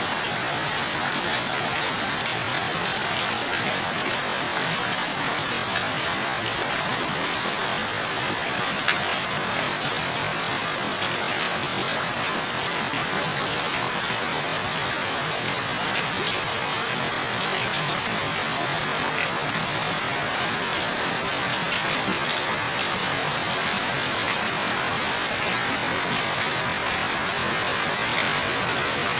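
Heavy rain pouring steadily onto waterlogged ground, puddles and plant leaves: an even hiss, with a few sharper drop hits.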